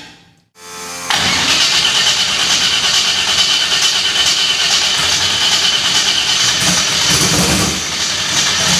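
Turbocharged 350 small-block Chevy V8 being started for the first time: about a second in it comes in suddenly and then holds loud and steady. It fires but runs rough, not on all eight cylinders.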